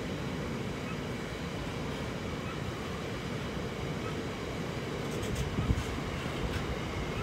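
Loaded box wagons of a long freight train rolling past on the rails, a steady low rumble of wheels on track. A few sharp clicks come about five to six and a half seconds in.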